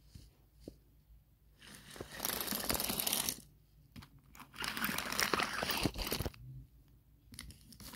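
Crinkling, crunching noise close to the microphone in two stretches, each lasting about a second and a half, the first starting near two seconds in and the second around four and a half seconds.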